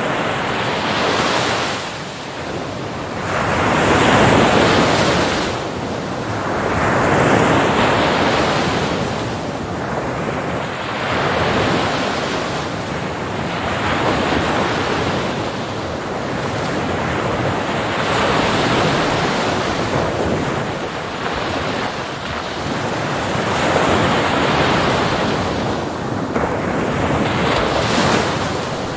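Ocean waves breaking on a beach, a steady wash of surf that swells and eases in rolling surges every few seconds.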